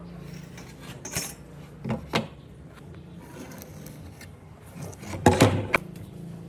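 A few short knocks and rattles of hard objects being handled, with a louder cluster of clatter near the end, over a steady low hum.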